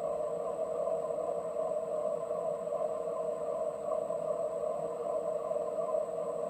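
PM 1130 metal lathe running at a steady hum while an insert tool takes a finishing cut on a bar-stock crankshaft.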